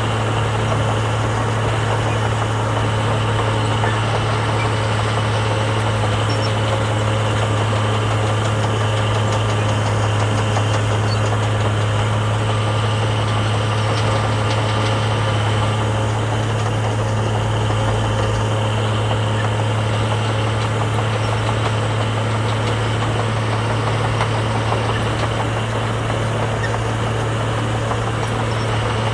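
Diesel engine of heavy earthmoving machinery running steadily at a constant speed, a deep even hum with no revving.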